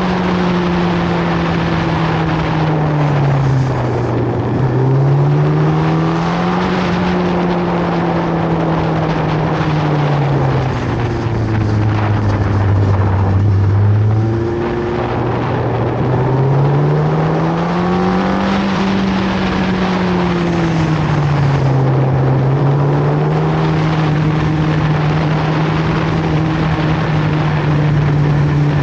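Inline-four superbike engine running steadily under way, its pitch falling and rising with the throttle over a few seconds at a time, lowest for a few seconds near the middle and steady again toward the end. Steady wind rush mixes with it.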